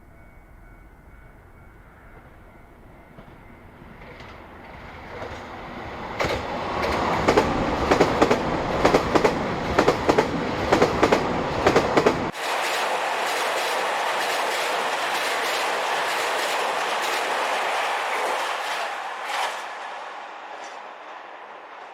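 KiHa 261 series diesel limited express train passing at speed. The sound builds as it approaches, then the wheels beat rapidly over rail joints. About twelve seconds in the low rumble cuts off abruptly, leaving a steady rushing noise as the rest of the train goes by, which fades near the end.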